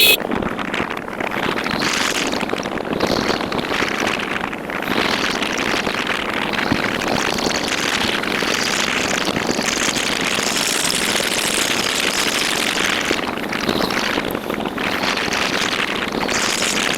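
Motorcycle underway: steady wind noise on the microphone over the engine and road noise, with a short click at the very start.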